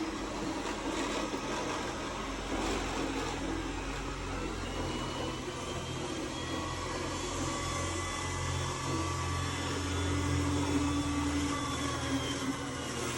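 iRobot Roomba S9 robot vacuum running with a steady grinding noise, its low hum swelling for a few seconds past the middle. The owner wonders whether the grinding comes from the wheels.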